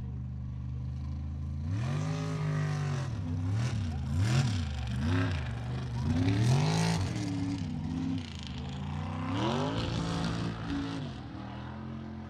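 Mud truck's engine idling, then blipped up and down in a string of quick revs, with one more rev about ten seconds in before it settles back to idle.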